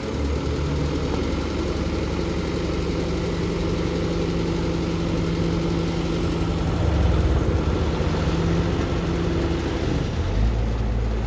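Diesel engine of heavy road-works machinery running steadily. About ten seconds in the note changes: the higher hum drops away and a deeper rumble takes over.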